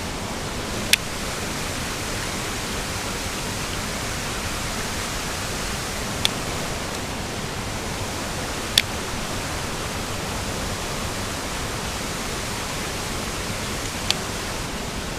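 Steady rushing of water pouring over a small creek waterfall, with four brief, sharp high clicks scattered through it.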